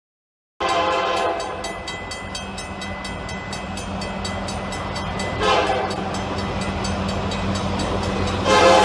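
A loud horn sounding a chord of several pitches. It starts abruptly about half a second in, keeps sounding, and comes back louder near the end.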